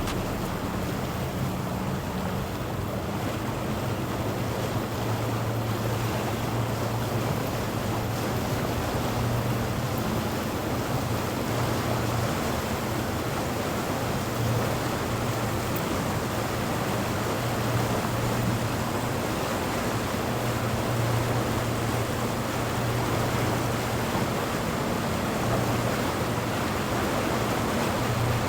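Boat engines running with a steady low hum over an even wash of water and wind noise on the microphone.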